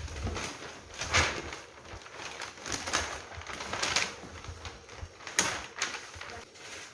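Handling noise from unboxing a Hot Wheels display rack: irregular clicks and knocks as parts and packaging are moved about, a few sharper knocks standing out.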